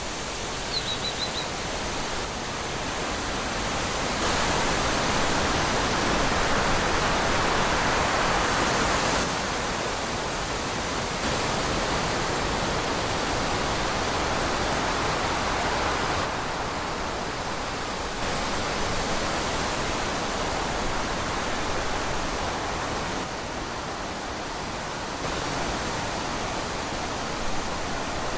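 Wind blowing through trees as a steady rushing hiss that swells and eases in slow gusts. A brief high chirp sounds about a second in.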